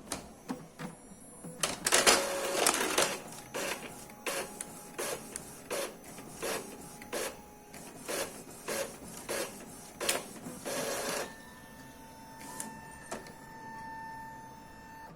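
Epson L3150 ink-tank printer making a copy, now feeding and printing without jamming. About two seconds in, the paper is drawn in with a dense mechanical whirr. Then the print carriage shuttles back and forth with a regular clack about every 0.7 s, and a steady high hum follows near the end.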